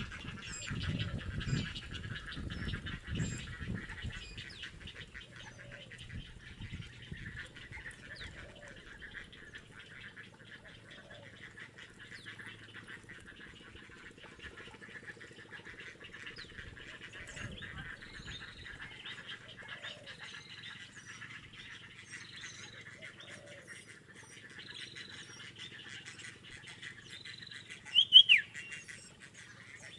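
Birds calling over a steady high buzzing background. Short high notes repeat about every second and a half in the second half, and a single loud sharp chirp near the end is the loudest sound. Low thumps and rumbles come in the first few seconds.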